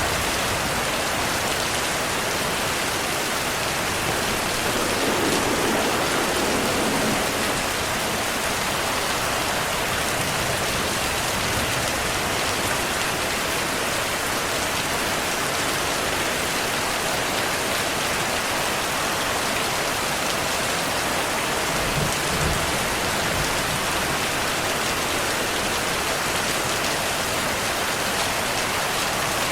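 Heavy rain falling steadily, a dense even hiss, with a low rumble of thunder about five seconds in and another around twenty-two seconds.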